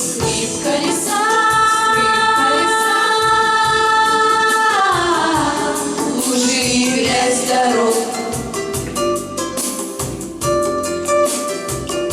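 Song performed live, with voices singing a long held note that slides down in pitch about five seconds in, over instrumental accompaniment with a steady drum beat.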